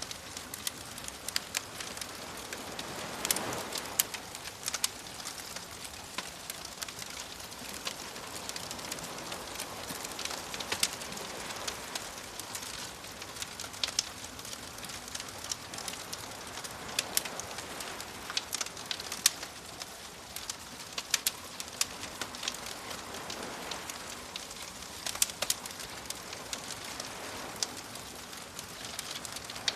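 Wood fire crackling with frequent sharp pops and snaps, over gentle waves that wash in about every seven seconds.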